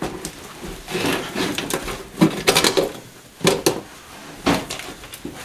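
Work noises from stripping a car's interior: the floor carpet being pulled and worked loose, with irregular rustling and scraping and several sharp knocks, the loudest cluster about two to three seconds in.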